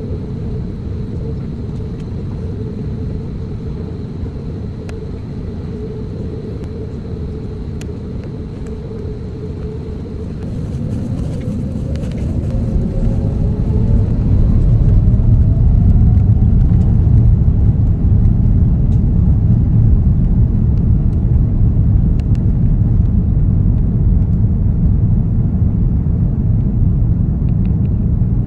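Airbus A330-900's Rolls-Royce Trent 7000 turbofans heard inside the cabin: a steady hum, then about ten seconds in the engines spool up with a rising whine. The sound grows into a much louder, steady low rumble as takeoff thrust is set for the takeoff roll.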